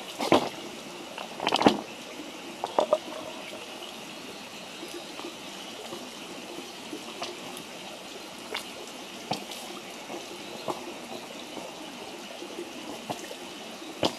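Wood campfire burning with a steady hiss and scattered sharp crackles and pops, with a few louder knocks in the first three seconds.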